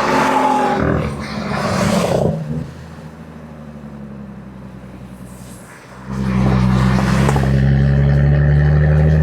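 Jaguar F-Type V6 S's supercharged 3.0-litre V6 exhaust at track speed: loud on the throttle for the first two and a half seconds, dropping to a quieter off-throttle note for about three seconds, then loud again at a steady pitch under full throttle from about six seconds in.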